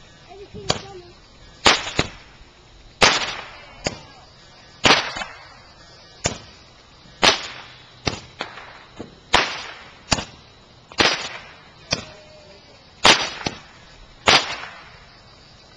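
Fireworks going off in a series of about fifteen sharp bangs, roughly one a second at slightly uneven intervals, each with a short echoing tail.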